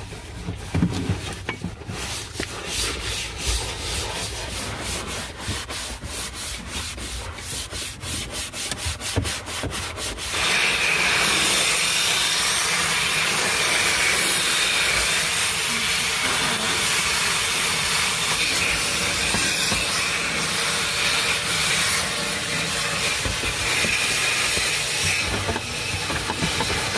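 Brush scrubbing the truck cab floor in back-and-forth strokes that quicken over the first ten seconds. Then, about ten seconds in, a vacuum cleaner switches on and runs with a steady hiss.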